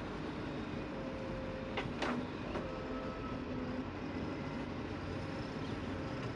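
Heavy diesel earth-moving machinery running steadily, with two sharp metallic clanks about two seconds in, each ringing briefly.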